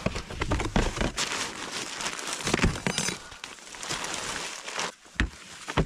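Rustling and crinkling of gear being handled, with scattered clicks and knocks; a few louder knocks near the end.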